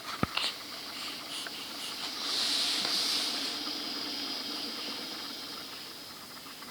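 A child's breathy, hissing sound that swells about two seconds in and slowly fades, over a steady background hiss.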